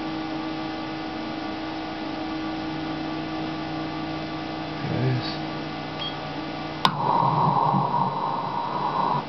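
Steady electrical hum made of several fixed tones. About seven seconds in there is a sharp click, and a louder hiss follows for about two seconds.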